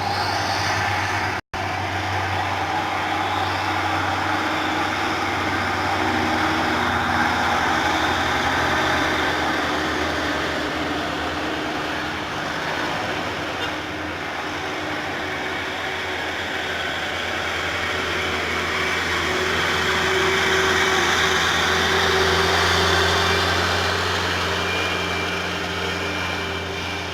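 Diesel truck engines climbing a gentle hill under load, a continuous drone that swells and fades as trucks go by, louder again near the end before fading. A momentary break about a second and a half in.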